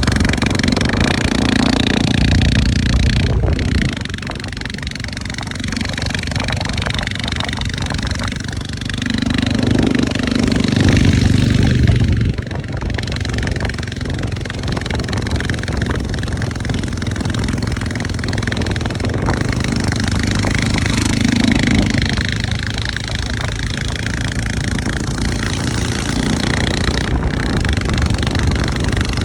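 Motorcycle engine running while riding, its pitch and loudness rising and falling under a steady rushing noise. The sound changes abruptly about 4 and 12 seconds in.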